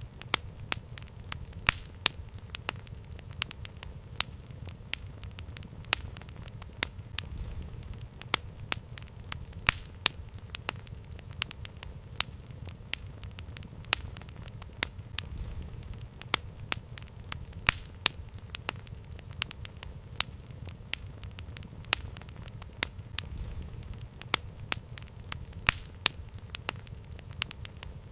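Campfire crackling: irregular sharp pops and snaps, a couple each second, over a steady low rumble of the flames.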